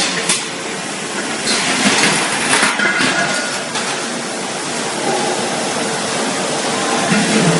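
Factory production-line machinery running, a steady din with a few metallic clinks and knocks in the first few seconds.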